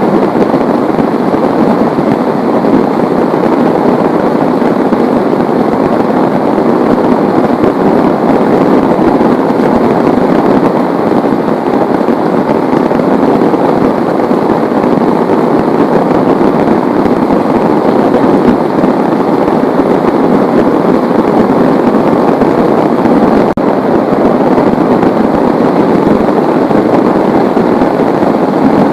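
Heavy rain falling steadily, a loud, even, unbroken rush of drops.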